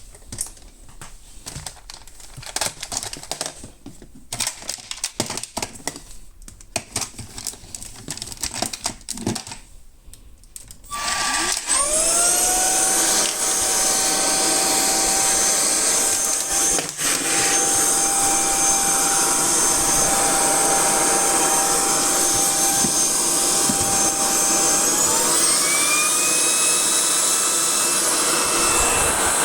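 Scattered clicks and knocks for about eleven seconds. Then the motor of a Hitachi PV-BEH900 cordless cyclone stick vacuum starts, winding up to a steady whine. About 25 seconds in, it shifts up to a higher speed and keeps running.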